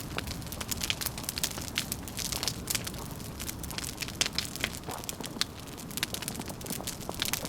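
Wood fire crackling, with many irregular sharp pops and snaps, some louder than others, over a low steady rumble.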